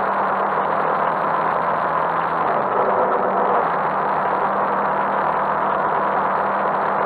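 Motorcycle engine running under the rider, heard from a handlebar-mounted camera with steady wind and road rush. The engine note dips briefly about two and a half seconds in, then picks up again.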